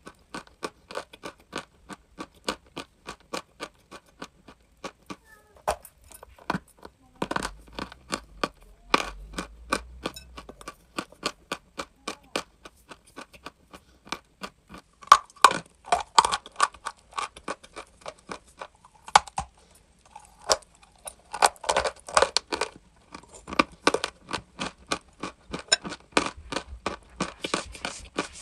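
Crunchy chalk being chewed: sharp crisp crunches at about three a second, louder in two spells about halfway through and near the end.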